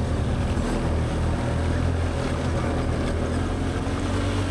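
Can-Am Outlander 850 XT ATV's V-twin engine running steadily at low speed while pulling up a steep, rocky hill climb.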